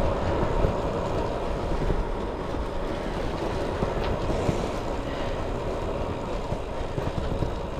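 Trek Domane SL5 carbon road bike riding along a tarmac road: steady tyre and road rumble mixed with wind rushing over the action camera's microphone, with a few light clicks.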